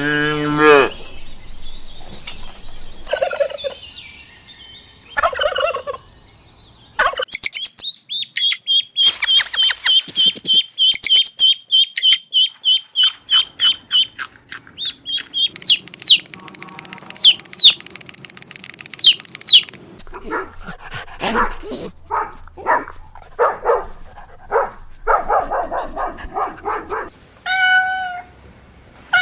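A run of different bird and poultry calls: a fast high trill, then sharp chirps, then repeated harsh calls. A cat meows near the end.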